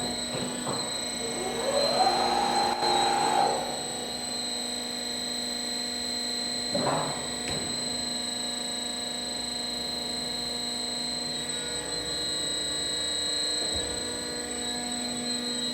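MACC 391AV automatic twin-column bandsaw running its automatic cutting cycle, a steady machine hum. A louder whine rises and then holds from about one and a half to three and a half seconds in, and two brief swishes come about seven seconds in.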